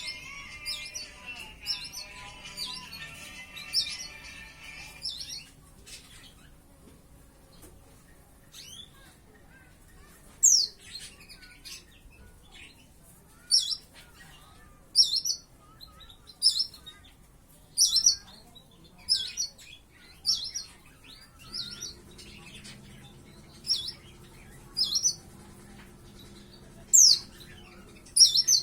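Young white-eye (pleci), about five months old and just beginning to learn its song, giving short, sharp high chirps, some of them quick falling notes, repeated roughly once a second through the second half. A stack of steady tones sounds over the first few seconds, and a low steady hum comes in about three-quarters of the way through.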